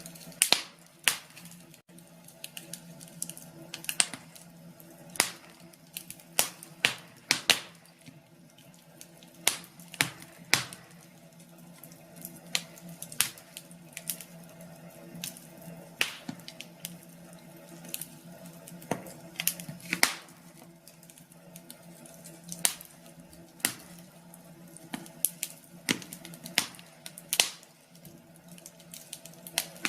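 Wood fire crackling, with irregular sharp pops and snaps, some in quick clusters, over a faint steady hum.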